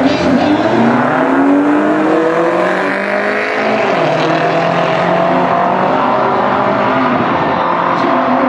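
Two BMW performance SUVs launching off the drag-strip start line and accelerating hard, the engine note rising, dropping at a gear change about three seconds in, then climbing again as they pull away.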